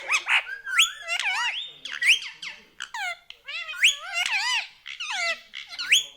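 Indian ringneck parrot (rose-ringed parakeet) chattering: a quick string of squeaky calls that slide up and down in pitch, several sweeping sharply upward.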